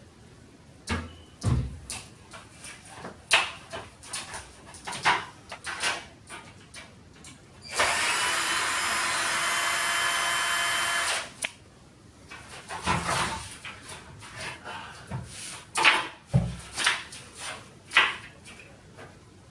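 A power tool runs steadily for about three seconds near the middle, surrounded by scattered knocks, clatters and scrapes of tiles and plasterboard being pulled from a damp shower wall.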